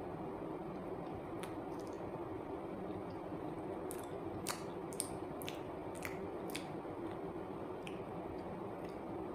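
Close-up mouth sounds of a person chewing banana: wet smacks and clicks of the lips and tongue, about two a second in the middle of the stretch, over a steady room hum.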